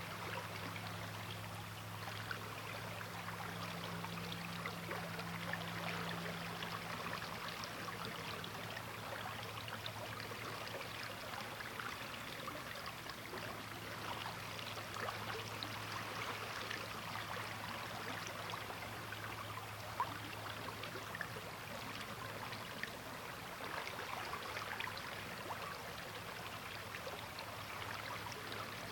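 River water flowing in a steady rush, full of small splashes and gurgles. A faint steady low hum runs underneath.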